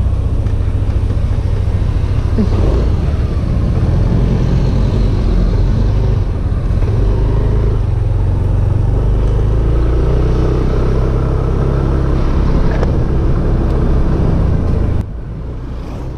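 Yamaha Aerox 155 scooter's engine running with a steady, heavy low rumble; the sound drops suddenly about a second before the end.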